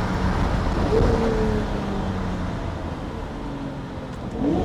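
Lamborghini V12 engine under hard acceleration in second gear, then easing off, its note falling as the car slows. A short rev blip comes near the end.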